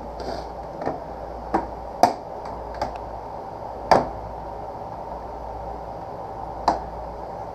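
Sharp plastic clicks and knocks of a Kawasaki Ninja 300's cowling panel being worked into place, about six in all, the loudest around two and four seconds in, over steady background noise.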